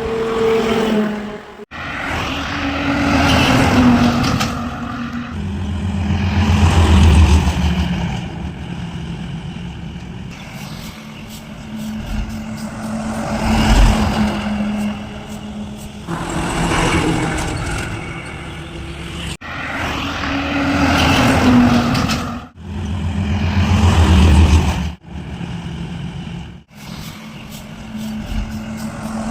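Heavy trucks passing one after another on a highway, engine hum and tyre noise swelling and fading with each pass. The sound breaks off abruptly several times.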